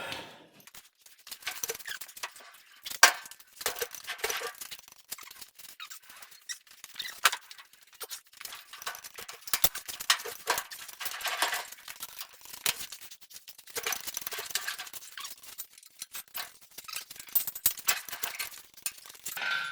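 Irregular metallic squeaks, clinks and knocks as the 4.6L engine is worked down into the truck's frame, with one sharper knock about three seconds in.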